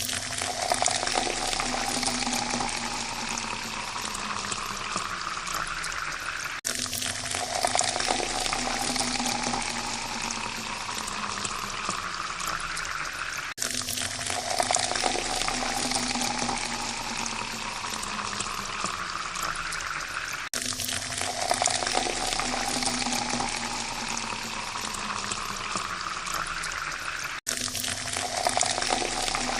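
Water pouring into a glass, its pitch rising steadily as the glass fills. Each pour runs about seven seconds, cuts off suddenly and starts again, as a repeating loop.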